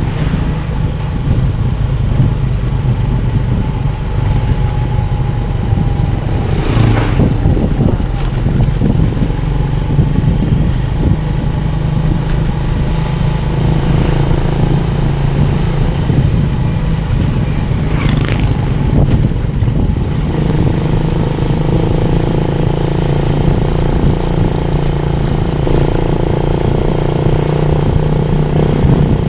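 Motorcycle engine running steadily while riding, with two brief whooshes, about seven and eighteen seconds in.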